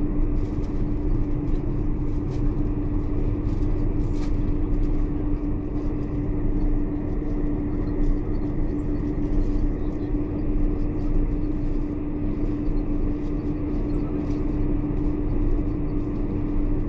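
Steady cabin noise inside a Boeing 747-400 airliner: a constant drone from the engines and air system with a steady hum and low rumble, and a few faint clicks.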